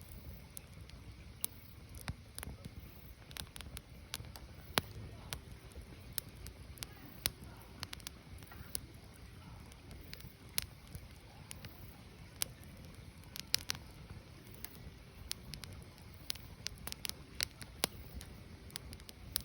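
Firewood burning: irregular sharp crackles and pops, several a second at times, over a low steady rush of the fire.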